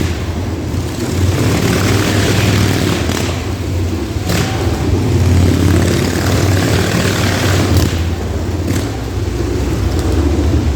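Motorcycle engines running loud and steady, with small rises and falls in revs as the bikes circle, and a few short sharp knocks.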